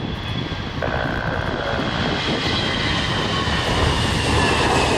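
Airbus A321-212 jet airliner's twin CFM56 turbofan engines at takeoff power: a loud, steady roar with a whine that slowly falls in pitch, growing louder as the jet passes.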